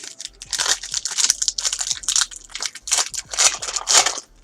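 Crinkling and rustling of trading-card pack wrappers and cards being handled, in quick irregular bursts, loudest near the end.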